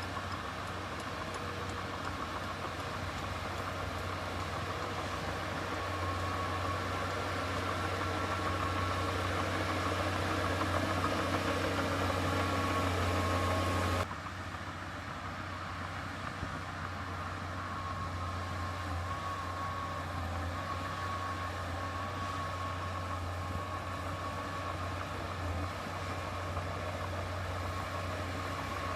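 Heavy construction machine's diesel engine running steadily with a deep hum, growing slowly louder, then cutting abruptly about halfway to a somewhat quieter stretch of the same kind of engine sound.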